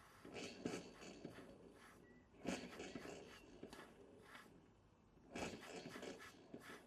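Small model beam steam engine turning over slowly and struggling, low on steam, giving faint clusters of clicking and puffing about every three seconds. One of its spirit burners has gone out.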